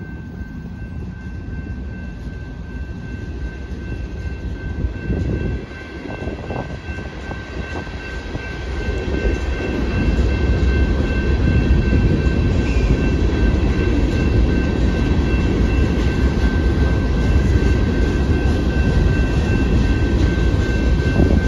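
Freight train passing a grade crossing: an EMD SD70ACe diesel locomotive goes by first, then loaded rock hopper cars roll past with a louder, steady rumble from about eight seconds in. A crossing bell rings over it as a steady high tone.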